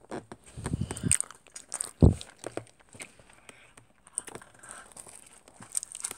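Biting and chewing a slice of pizza held in a paper sleeve, with scattered crackles of the paper and food. A dull thump about two seconds in is the loudest sound.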